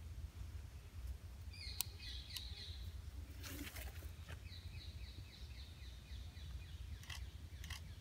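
A bird calling in two runs of quick high chirps, the first about a second and a half in and a longer one from about four and a half seconds. Between and over the chirps come a few sharp clicks and knocks from the tripod and long camera lens being handled, over a steady low rumble.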